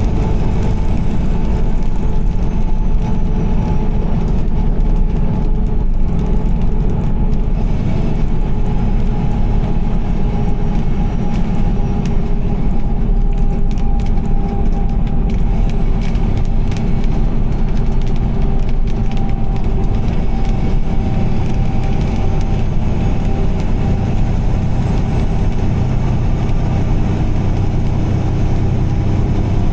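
Car driving on a rain-soaked highway: steady tyre and engine road noise with a deep rumble.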